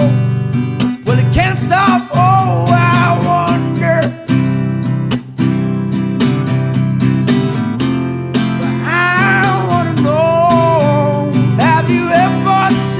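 A song with strummed acoustic guitar and a wavering, gliding melody line over the chords.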